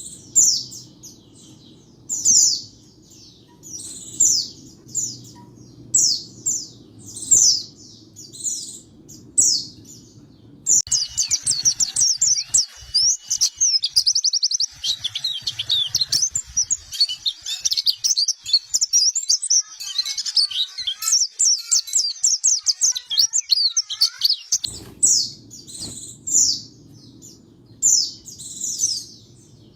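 White-eye (pleci) calling in short, high, repeated chirps, a little under one a second. About a third of the way in, it changes abruptly to a long, fast, continuous twittering song. Near the end it switches back to the spaced chirps. A low hum lies under the chirping parts.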